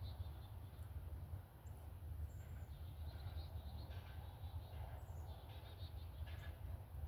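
Birds giving short, scattered chirps and call notes, busiest in the middle of the stretch, over a steady low outdoor rumble.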